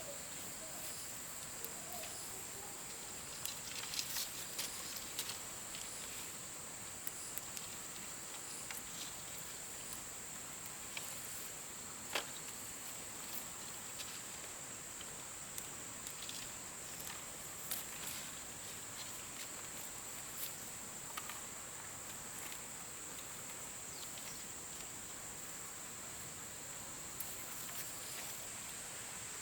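Steady high-pitched insect chorus, with scattered light clicks and taps over it, the sharpest a little under halfway through.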